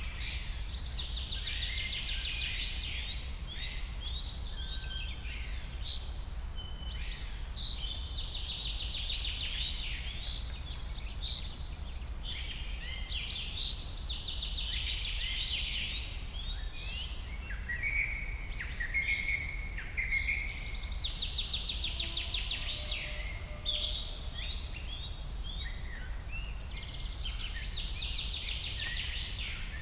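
Birds singing: trilled song phrases come back about every six seconds, with short chirps between them, over a steady low rumble.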